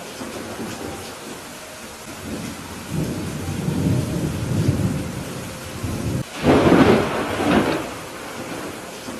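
Thunderstorm: steady rain falling while thunder rumbles low through the middle, then a louder crack of thunder about six seconds in that rolls on for a second or two.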